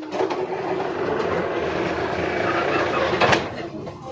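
A 71-605A tram running along its rails, heard from aboard, with a steady noise, a low steady hum underneath, and a sharp knock about three seconds in.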